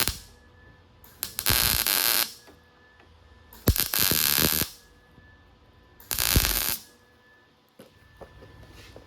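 Welder laying short tack welds on thin sheet metal: three separate bursts of crackling arc, each about a second or less, with pauses between. The welds are kept brief because the thin metal burns through.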